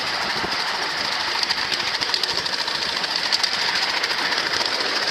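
Miniature ride-on train moving along its track with a steady, rapid clattering rattle.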